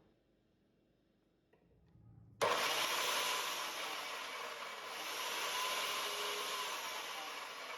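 Restored Bosch power cutter cutting through wood, coming in suddenly about two and a half seconds in and running on as a loud rasping cut, with the motor's pitch wavering under load.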